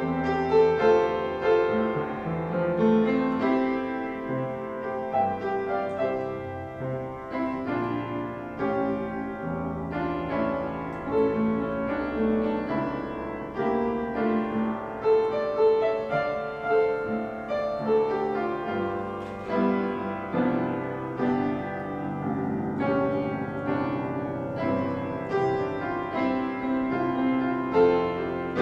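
Piano playing a piece of chords and melody over long-held bass notes.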